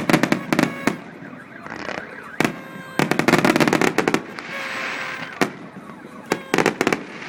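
Fireworks going off: scattered sharp bangs and rapid runs of crackling reports, with a hissing stretch about four and a half seconds in.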